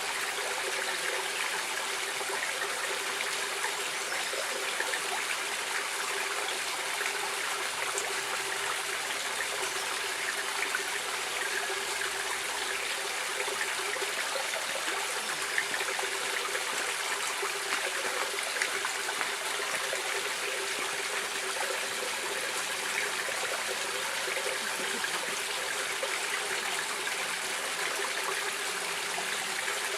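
Small stream of water running and trickling, a steady even rush without pauses.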